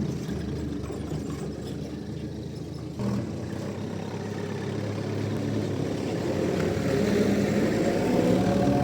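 Engine running steadily, with a single knock about three seconds in and the engine growing louder toward the end.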